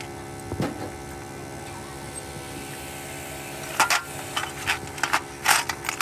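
Workshop work sounds: a steady machine hum, with a run of short, sharp knocks starting about four seconds in.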